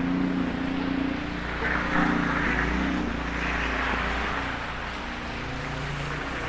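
A motor vehicle's engine running, a steady hum over a low rumble that shifts in pitch a couple of times.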